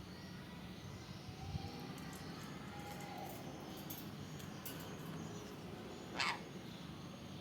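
A nuri parrot (lory) gives one short call that falls sharply in pitch, about six seconds in, over a steady low background hum.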